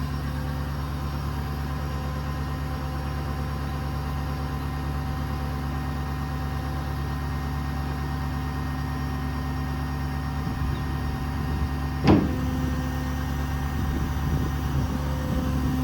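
A 6.7 Power Stroke V8 diesel running steadily at idle, with a sharp clunk about twelve seconds in.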